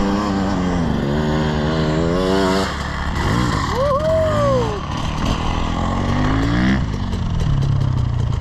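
Dirt bike engines running in soft sand, their pitch wavering up and down with the throttle. There is a short higher-pitched rise and fall about four seconds in. One engine revs upward shortly after that, then drops back to a steadier low idle near the end.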